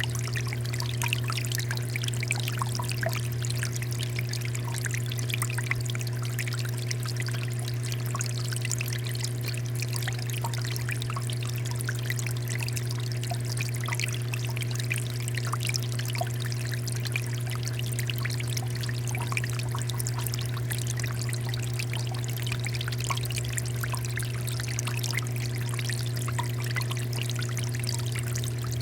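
Water fountain splashing and trickling steadily, with a steady low hum underneath.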